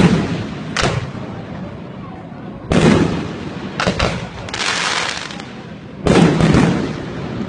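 Fireworks going off in a loud, irregular series of about six sharp bangs, each trailing off. A longer noisy burst of just under a second comes near the middle.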